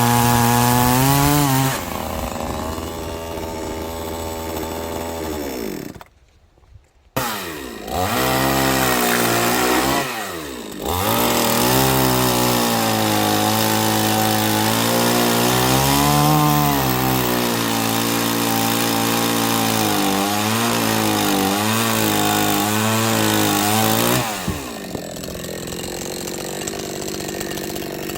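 Two-stroke chainsaw running and cutting wood, its engine note rising and sagging as it works through the log. It cuts out for about a second early on, then settles to a lower, steady idle near the end.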